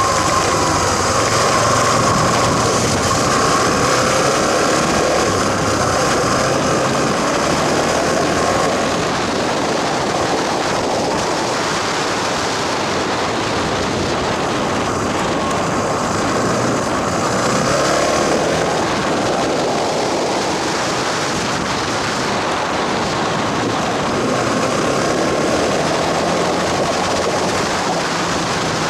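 Small motorcycle engine running under way, its pitch rising and falling with the throttle, over a steady rush of wind noise.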